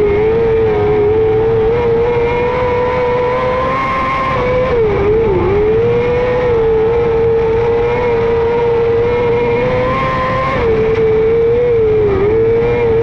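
Micro sprint car's 600cc motorcycle engine running hard at high revs. Its pitch holds steady on the throttle and dips briefly a couple of times as the driver lifts off and gets back on it.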